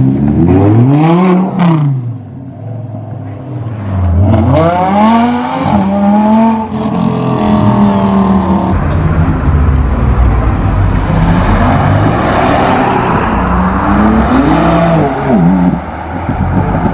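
Audi R8 engine revving and accelerating hard in several launches: the engine pitch climbs and drops repeatedly, with stepped climbs through the gears. In the middle, steadier loud engine and road noise.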